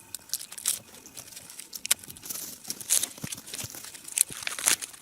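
Dry, loose birch bark being peeled off the trunk and crumpled by hand: irregular papery crackling and tearing.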